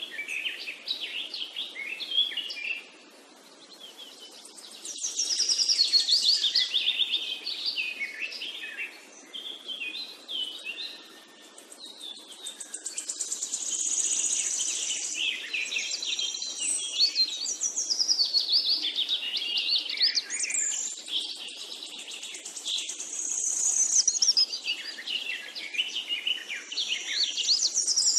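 Birds singing: a busy run of quick chirps, trills and whistled notes.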